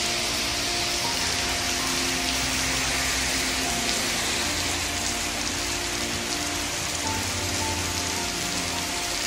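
Steady heavy rain pouring onto wet pavement, cars and trees, an even hiss throughout. Soft background music with long held notes plays underneath.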